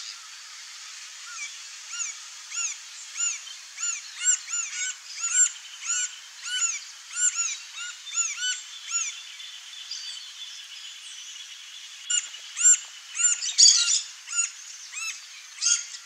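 A bird calling a long series of repeated clear, arched notes, about one and a half a second, in two bouts with a pause of a few seconds between. A short noisy burst, like a rustle, cuts in briefly near the start of the second bout.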